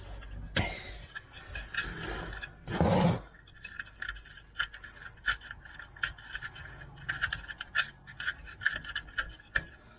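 Metal wheelbarrow wheel and axle parts being handled and fitted, scraping and clicking in quick irregular runs, with one louder short rush about three seconds in.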